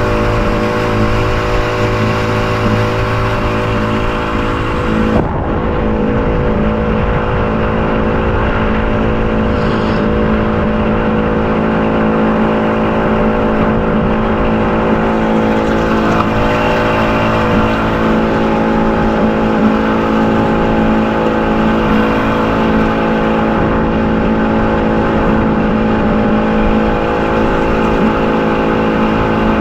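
A motor running at a steady, unchanging speed, making a droning hum, with wind rumbling on the microphone.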